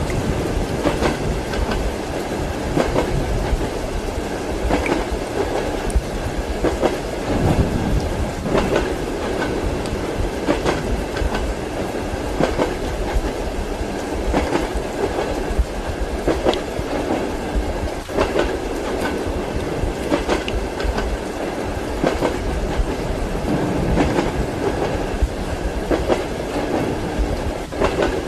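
Train wheels clacking over rail joints, heard from inside a passenger compartment, with a steady rumble of the moving carriage. The clacks come at a regular rhythm, about one every second or two.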